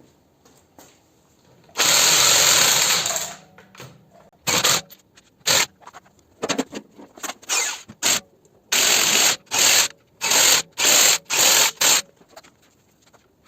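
A power tool run in one long burst, then pulsed in a dozen or so short bursts with brief pauses between.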